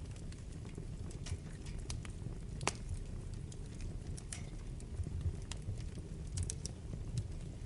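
Wood fire burning in a fireplace: irregular sharp crackles and pops over a low steady rumble, with one louder pop a little before the halfway point.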